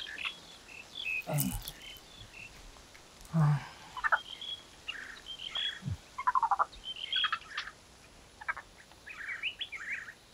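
Birds chirping and calling in short, scattered phrases. Two brief low sounds break in, the louder one about three and a half seconds in.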